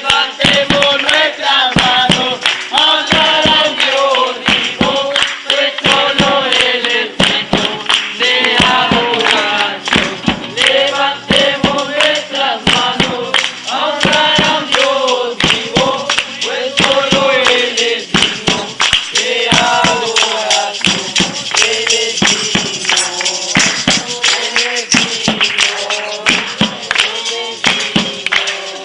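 Several voices singing together to a quick, steady beat of sharp percussive hits.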